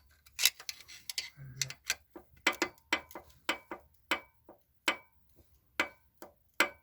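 A run of sharp metallic clicks, some ringing briefly, irregular: several a second in the middle, thinning out near the end. A part inside the Infiniti FX35's VQ35 V6 is being moved by hand, knocking in its play; the play is the suspected cause of the engine knock.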